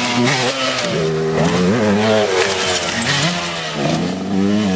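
Motocross bike engine revving up and down over and over as the rider works the throttle, the pitch rising and dropping several times and falling away suddenly at the end.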